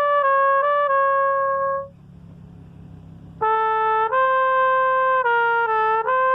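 Solo trumpet playing sustained notes that step between pitches, broken off about two seconds in for a breath. The playing resumes about a second and a half later.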